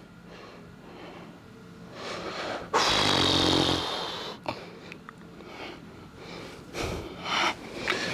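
A man breathing hard from exertion, with a loud, strained, groaning exhale about three seconds in and a few light knocks afterwards.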